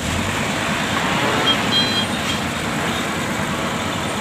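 Heavy truck engines running steadily, mixed with passing road traffic.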